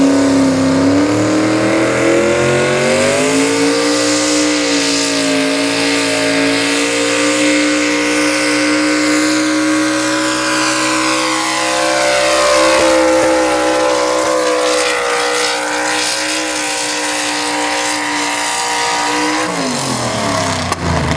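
Two-wheel-drive super stock pulling truck's engine at wide-open throttle under load while pulling a sled. The pitch climbs over the first few seconds and holds high and steady, then drops sharply about a second and a half before the end as the throttle is lifted at the end of the pull.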